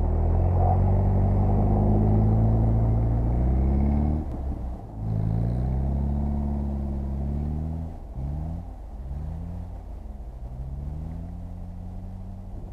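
Mercedes-Benz car engine, heard from inside the car, climbing steadily in revs for about four seconds, dropping briefly, climbing again, then rising and falling in short swells as the throttle is worked on the snow.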